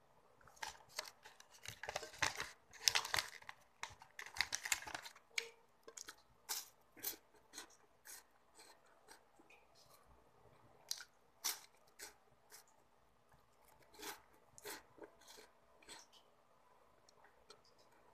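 Close-up chewing and crunching of crisp chocolate wafers: short crisp crunches and chewing clicks, with a denser burst of crackling about two to five seconds in.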